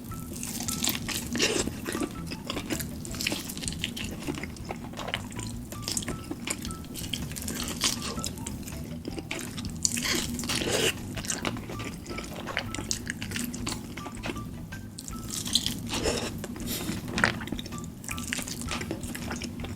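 Close-miked wet eating sounds: chewing, lip smacks and sticky mouth clicks on saucy food, coming irregularly with a steady low hum underneath.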